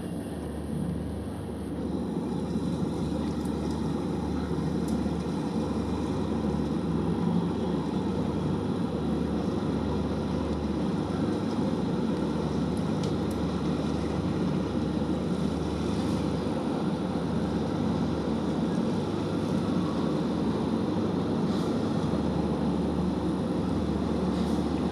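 Ship's engine running, a steady low rumble that gets a little louder about two seconds in.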